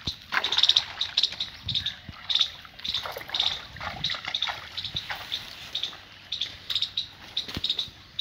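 Small birds chirping, short high calls about twice a second, over a faint trickle of irrigation water.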